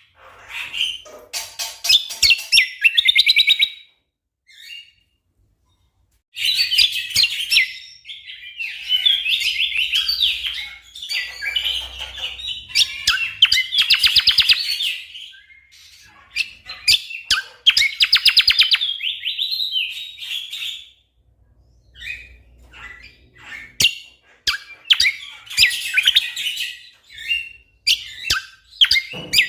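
Cucak kombo songbird singing in loud, rapid bursts of fast trilling and chattering phrases, broken by short pauses. This is the energetic, dense rapid-fire song ('gacor', 'tembakan rapat') that bird keepers play as a master recording for their own birds to copy.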